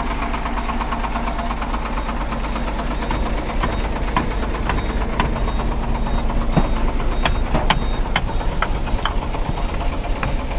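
A truck's diesel engine running steadily, with irregular sharp knocks and clanks from about three seconds in that grow louder toward the end.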